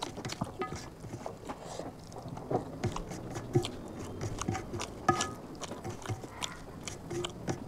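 Close-miked eating sounds: chewing a mouthful of chicken curry and rice, with irregular wet clicks and smacks.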